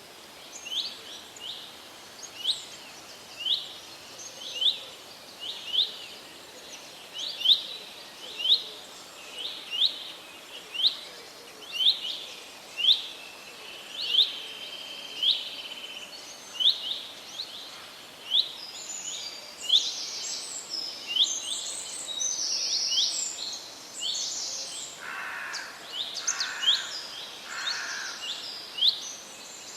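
Forest birds singing: one bird repeats a short, sharp chirp about once a second, and from about the middle other birds join with higher, busier song, plus three lower calls near the end.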